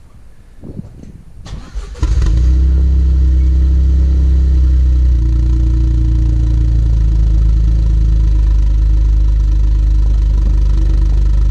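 Toyota GR Yaris's turbocharged three-cylinder engine, breathing through an aftermarket sport muffler, starts with a sudden burst about two seconds in and settles into a loud, steady idle.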